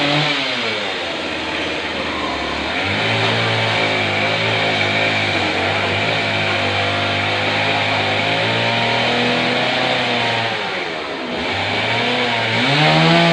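Chainsaw cutting into the trunk of a fallen sengon tree. The engine pitch drops as the chain bites into the wood, holds steady under load, sags again and revs up near the end.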